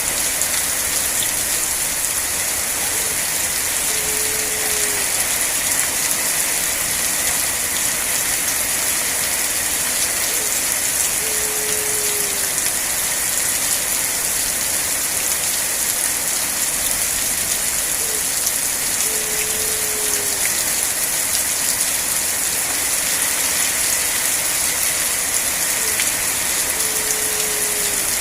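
Steady rain, an even unbroken hiss. Four times, about every seven seconds, a short low note that falls slightly in pitch sounds faintly under the rain.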